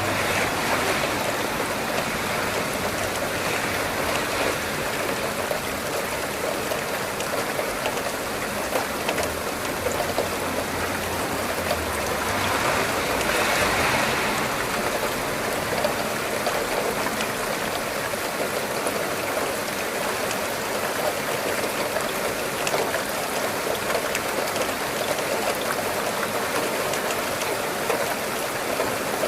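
Steady rain falling, a dense even hiss with scattered drop ticks, swelling briefly louder about halfway through over a low rumble.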